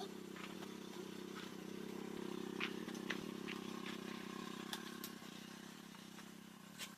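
A small motor running steadily, a low even hum with scattered light clicks, cutting off suddenly at the end.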